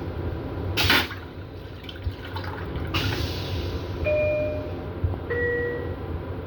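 Steady low rumble of a moving M7 railcar heard in its small restroom, with two short noise bursts early on, then a two-note falling chime, the onboard public-address tone that comes before an announcement.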